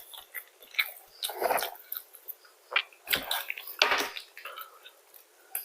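Close-miked eating of fast food: irregular crunchy bites and chewing mouth sounds, the loudest about one and a half, three and four seconds in.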